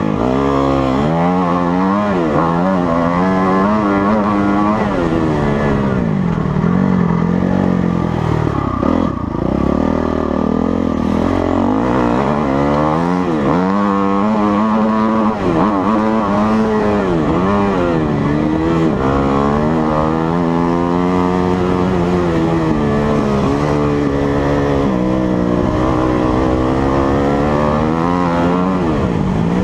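Motocross bike engine being ridden hard, revving up and dropping back again and again as the throttle opens and closes and the gears change.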